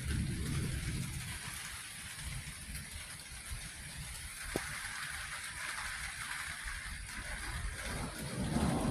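Heavy rain falling steadily during a thunderstorm, with a low rumble underneath and a single sharp click about four and a half seconds in.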